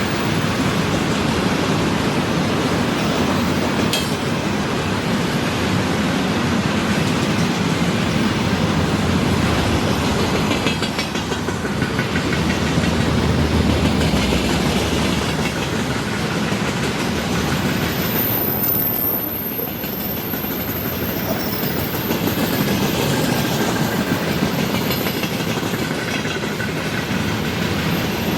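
A freight train's wagons rolling past, their wheels rattling steadily on the rails. A thin, very high whine comes in past the middle.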